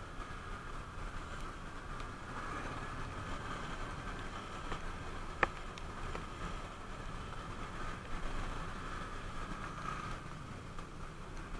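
Motorcycle on the move: steady engine, tyre and wind noise, with one sharp click about five seconds in.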